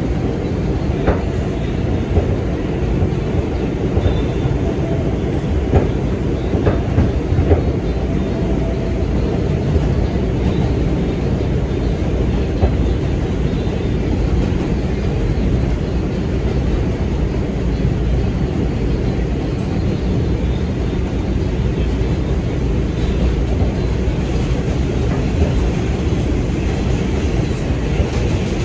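New York City subway 2 train running between stations, heard from inside the car: a steady, loud rumble of wheels on rail, with a few sharp clicks in the first several seconds.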